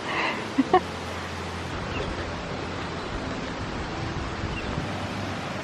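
Small mountain stream running, a steady rushing of water, with a brief voice sound in the first second.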